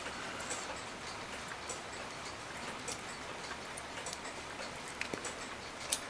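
Faint, irregular small metallic clicks and ticks from a cuckoo clock movement being handled and adjusted, with a sharper click about five seconds in and another near the end.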